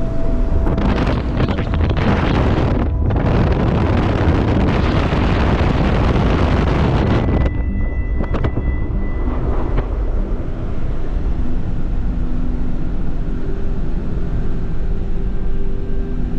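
2018 Jeep Wrangler JK driving through snow, heard in the cabin as a steady low road rumble. A loud rush of wind-like noise comes in about a second in and cuts off after about seven seconds.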